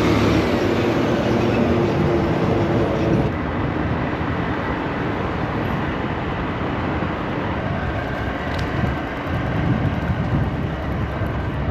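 Rumble of traffic and wind rush heard from an electric scooter riding in a bike lane, with a truck's engine running close alongside. A steady engine hum stands out during the first three seconds.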